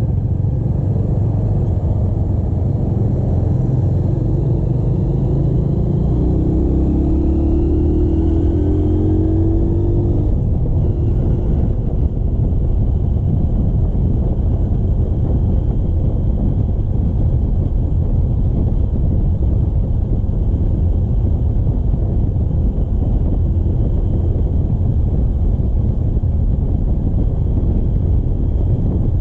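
Motorcycle engine running on the move under heavy wind rumble on the microphone; its pitch rises over roughly the first ten seconds as it accelerates, then the wind rumble stays steady.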